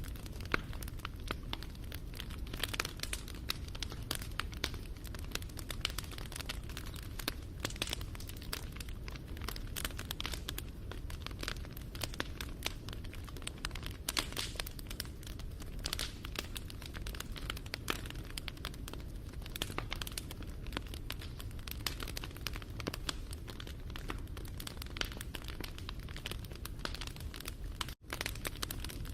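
Wood fire crackling: dense, irregular snaps and pops over a steady low rumble of flames. The sound drops out for a moment near the end.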